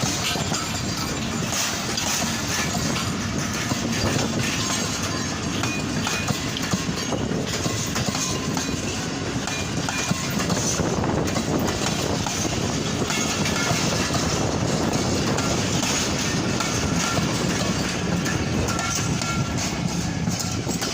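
Pak Business Express passenger train running on the rails, a steady rumble with the clickety-clack of wheels over rail joints and brief faint squeals of metal now and then.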